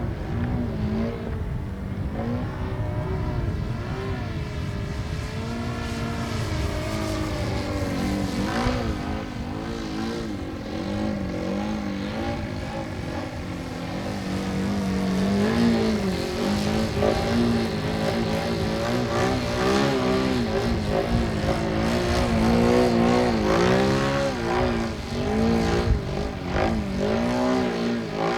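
Hokusei Model Ultima Z radio-controlled profile airplane in flight, its motor and propeller running with a note that keeps rising and falling in pitch as it passes and changes throttle. The note is somewhat louder in the second half.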